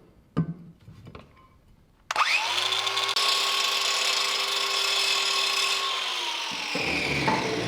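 An electric power tool switched on about two seconds in: its motor spins up quickly, runs steadily with a harsh hiss for about four seconds, then winds down. A few small knocks come before it.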